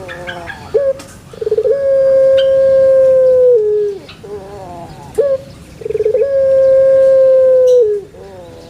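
A caged dove cooing close to the microphone: two long calls, each opening with a quick stuttering roll, then holding one steady note for about two seconds before dropping off, with softer falling coos in between.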